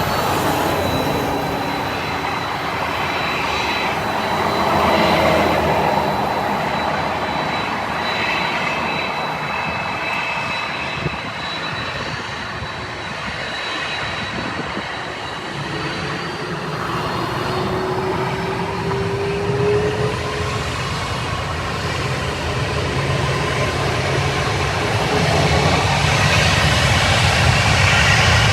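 Jet airliner's engines roaring continuously, with faint whining tones over the roar, growing louder over the last ten seconds or so.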